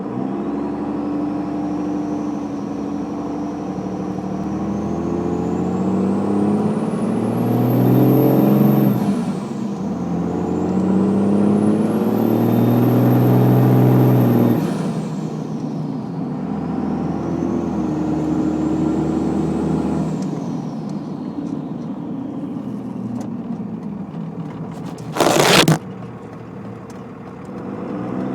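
2001 Dodge Ram 2500's 5.9-litre Cummins inline-six turbodiesel, straight-piped with the turbo's silencer ring removed, revved three times from idle. Each rev brings a loud turbo whistle that rises to a very high pitch and falls back as the engine drops to idle; the third rev is lower and shorter. Near the end comes a loud burst of noise lasting about half a second.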